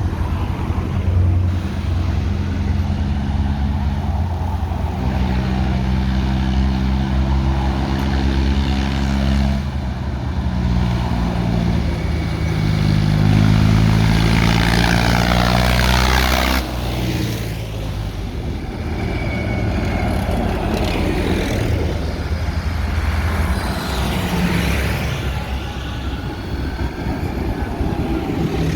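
Tractor engines running as a procession of tractors drives past, one after another. One passes close and loud around the middle, then the sound drops suddenly and the engines carry on.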